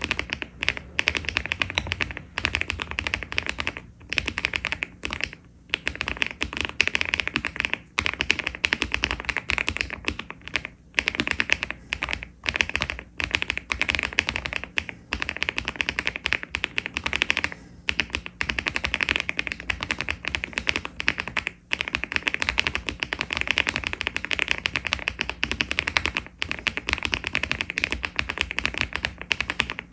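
Mechanical keyboard fitted with HMX Pebble linear switches (50 g) and Cherry-profile keycaps, in a LEOBOG Hi75 aluminium case, typed on quickly and continuously: a stream of rapid key clacks broken by a few short pauses.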